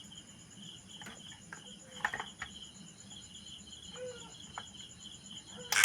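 Crickets chirping steadily, with a few light clicks and small handling sounds, and one sharp loud click near the end.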